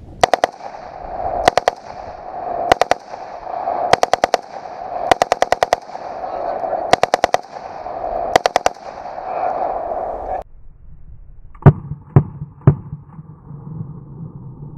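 WASR AKM-pattern 7.62x39 rifle firing full-auto in seven short bursts of two to five shots, over a steady hum that cuts off about ten seconds in. Near the end come three single sharp bangs, about half a second apart.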